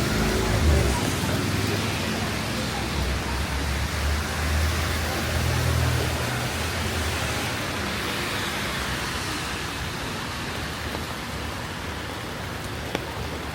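Steady rain hissing, with the low rumble of a passing vehicle that fades out about halfway through.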